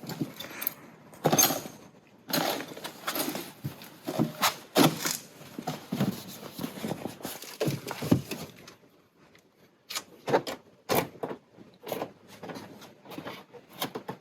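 Irregular knocks, clunks and rattles of objects being handled and moved around, with a quieter spell about two-thirds of the way through.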